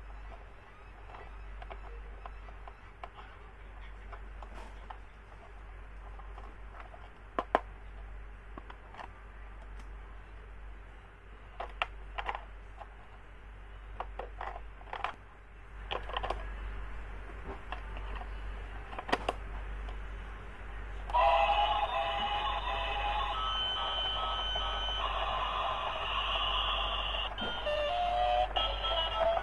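Scattered clicks and knocks of handling, then about 21 s in a battery-operated musical toy switches on and plays a loud electronic beeping tune.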